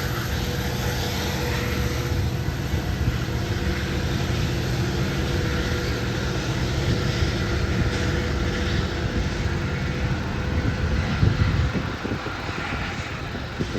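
A train passing: a steady low rumble with a broad noisy wash over it, holding level throughout.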